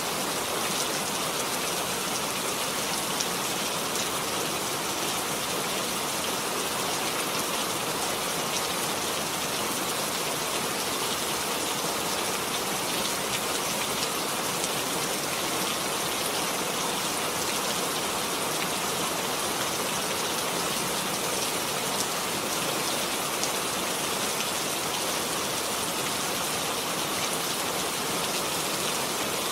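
Steady rain falling: an even hiss with a fine patter of individual drops, holding at the same level throughout.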